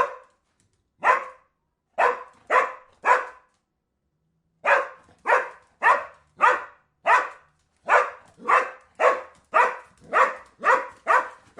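Dog barking repeatedly in short, sharp barks: a few spaced barks, a pause, then a steady run of about two barks a second.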